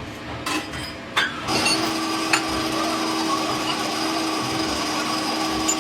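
Two short knocks, then about one and a half seconds in a power machine starts up and runs steadily with a hum and a hiss.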